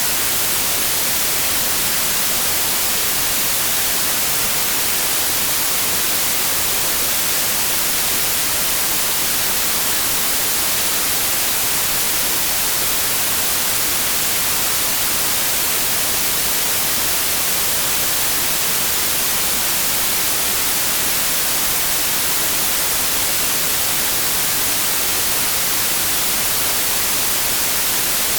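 Synthetic white noise: a steady, even hiss, strongest in the treble, with no change in level.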